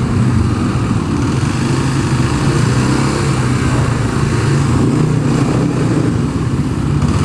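Dirt bike engine running at a steady pitch.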